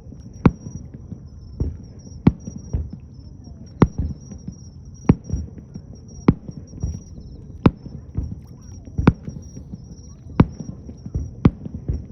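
Aerial fireworks shells bursting: a sharp bang about every second and a half, nine in all, with low rumbling and echo between them.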